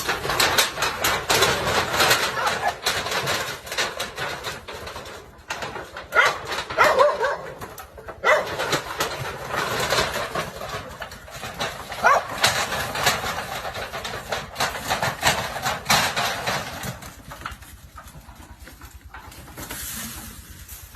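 Dogs barking repeatedly and excitedly, dying down near the end.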